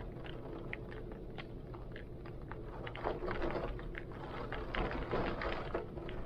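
Heavy rain with many separate drops ticking and tapping over a steady wash, and wind gusting, swelling louder about halfway through and again near the end.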